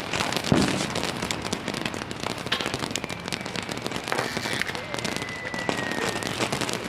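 Consumer fireworks crackling and popping in a dense, continuous rattle, with a thin whistle that slowly drops in pitch through the middle.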